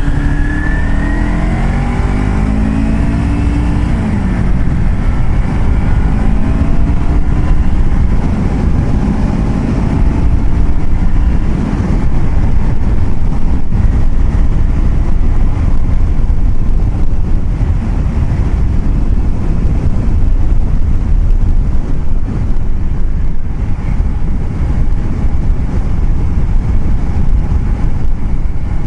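A vehicle's engine accelerating, its pitch rising, dropping about four seconds in at a gear change, then rising again. It then gives way to a steady rumble of road and wind noise while cruising.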